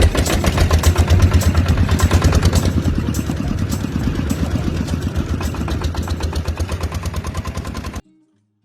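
Miniature engine running with a fast, even clatter, then cutting off suddenly about eight seconds in.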